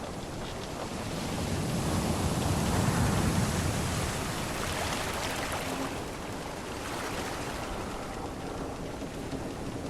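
Sea waves washing steadily, with one swell building about two seconds in and easing off after about six.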